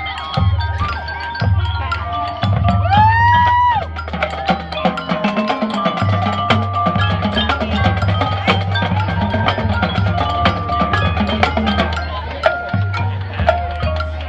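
Marching band music, with mallet percussion (marimba and bells) and woodblock-like clicks over a repeating low drum pattern. About three seconds in, a single pitched note slides upward for about a second.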